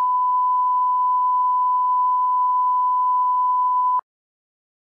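A steady, pure test-tone beep held at one pitch, the kind of reference tone laid at the head of a video. It cuts off suddenly about four seconds in.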